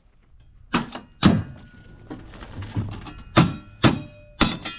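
Six sharp clanks at uneven intervals, the later ones each followed by a brief metallic ring.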